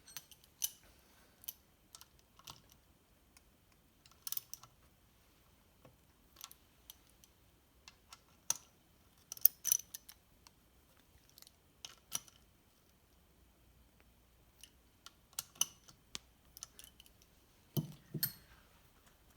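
Irregular light metallic clicks and taps of hand tools as engine bolts are snugged up by hand, with a few quick clusters of clicks.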